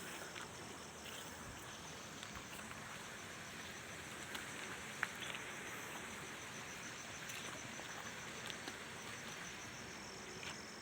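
Insects, cricket-like, trilling steadily with a fast, high-pitched pulsing chirr over a faint hiss, with a few small clicks.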